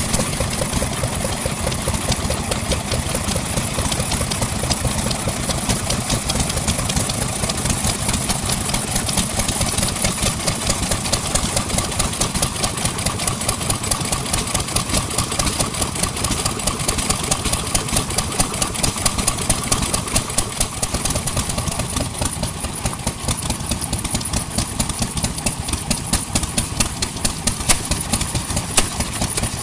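Vintage engine running steadily at idle with a rapid, even beat.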